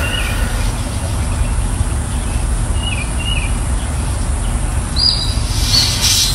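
A steady low rumble with a few short bird chirps over it, two of them close together about halfway through.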